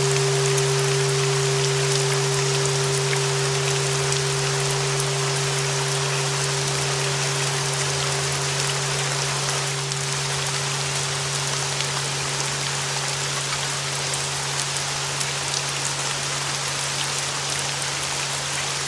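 Steady rain hiss with a long held bell tone at about 396 Hz and a low hum beneath it, both slowly fading.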